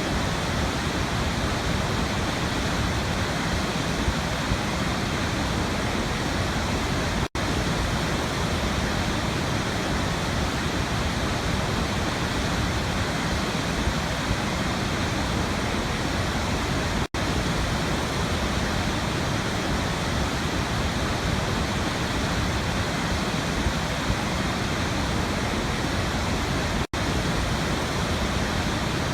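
Waterfall rushing in a steady, even roar, cut by three very short dropouts about ten seconds apart.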